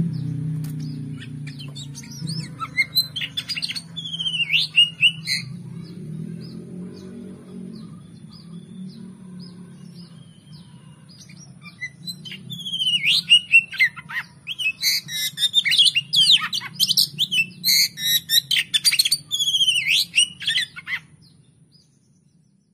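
Oriental magpie-robin (kacer) song: rapid, varied whistles mixed with harsh chattering notes. There is one short run of phrases a few seconds in, then a longer, louder, dense run that stops abruptly about a second before the end. A faint low hum sits underneath and fades out with the song.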